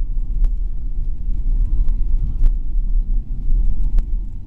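Steady low rumble inside the cabin of a Boeing 777-300ER rolling on the ground after landing, with a few sharp clicks or rattles.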